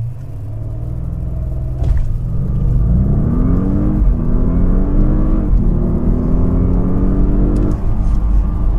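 2013 Audi S8's twin-turbo 4.0-litre V8 at full throttle from a standstill in a 0-60 mph run, heard inside the cabin. The engine note climbs steadily and drops back at each quick automatic upshift, about three times.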